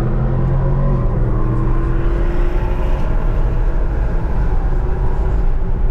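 Car engine and road noise while driving: a steady, loud drone whose pitch drifts slightly.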